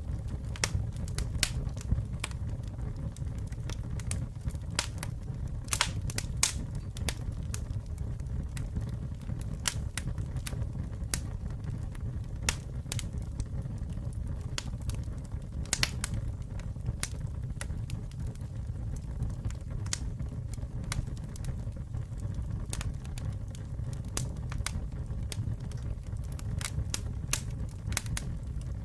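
Campfire burning: a steady low rumble of flames with irregular sharp crackles and a few louder pops of burning wood.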